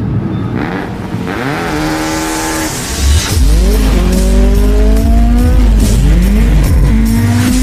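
Car engine revving, its pitch rising and falling again and again, turning much louder with a deep rumble about three seconds in.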